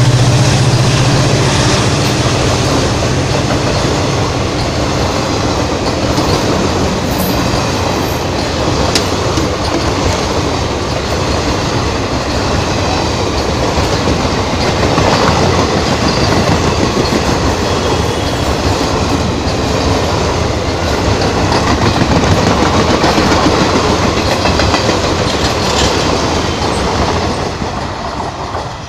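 Indian Railways passenger coaches passing close at speed: a steady rumble and clickety-clack of wheels over the rail joints. It fades near the end as the last coach goes by.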